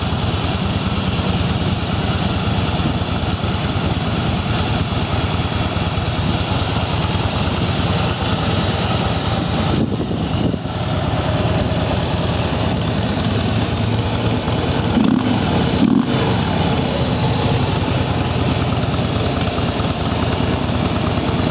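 2016 Harley-Davidson Softail Slim's 103 cubic-inch V-twin idling steadily through its quiet factory exhaust.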